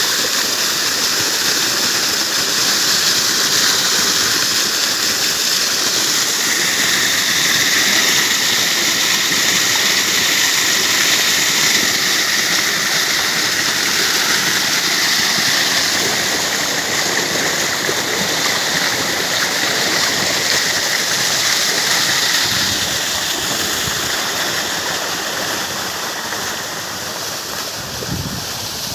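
Forest waterfall rushing: a steady, loud hiss of falling water that eases slightly in the last few seconds.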